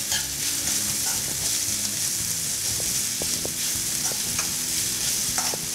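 Chopped onions, green chilies, ginger and curry leaves sizzling in hot oil in a wok as they are stirred with a steel spoon, with a few light ticks of the spoon against the pan.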